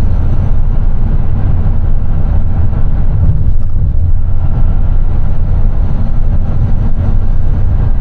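Steady, loud low rumble of engine and road noise inside the cab of a small box truck cruising on the interstate.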